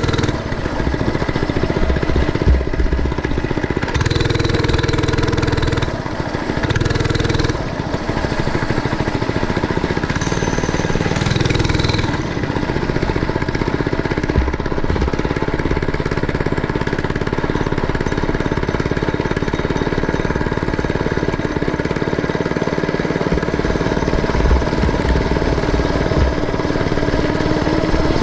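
Mini bike's small engine running as it is ridden, its speed and level shifting a few times in the first twelve seconds, then running steadier.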